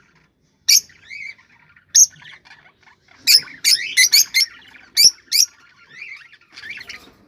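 Cockatiels calling: loud, sharp whistled calls at intervals, a quick cluster of them in the middle, with softer warbling chatter in between.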